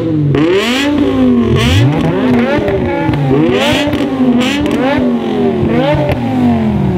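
BMW E60 M5's S85 V10 engine with an RPI exhaust, revved hard in quick throttle blips: the revs sweep up and drop back about every two-thirds of a second.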